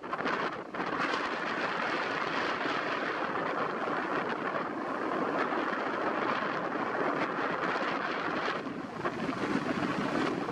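Steady rush of strong sea wind and breaking surf, with brief lulls just after the start and near the end.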